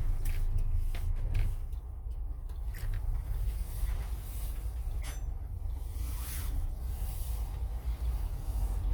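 Steady low road and engine rumble inside a moving motorhome, with scattered short knocks and rattles.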